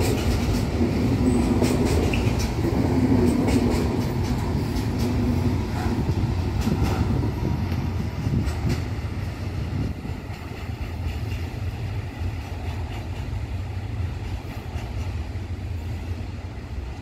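Intermodal freight train of pocket wagons carrying road semi-trailers rolling past on the rails, with a steady low rumble. Sharp wheel clicks sound over the rail joints in the first half, and the noise slowly fades as the train moves away.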